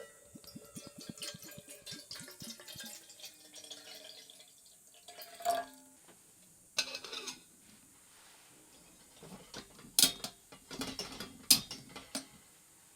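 Rapid mechanical clicking with faint falling tones for about four seconds, then several sharp knocks and clinks, the loudest two about ten and eleven and a half seconds in.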